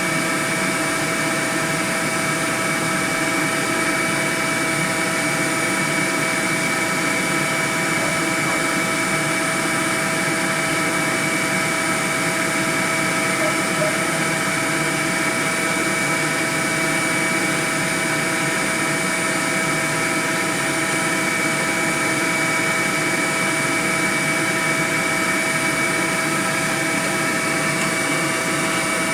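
Dense, steady buzzing of a honeybee swarm, with many bees flying at once in an even drone.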